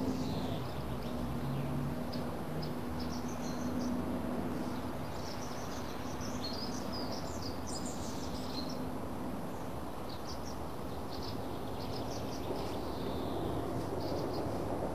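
Birds chirping in short, scattered calls over a steady background hiss and low hum.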